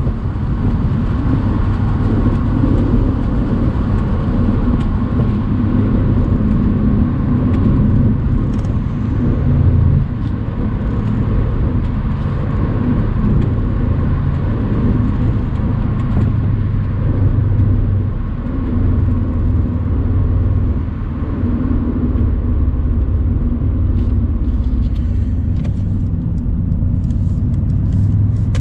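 Mercedes-AMG C63's twin-turbo V8 running at a steady, unhurried pace while driving, with tyre and road noise, heard from the open-top car.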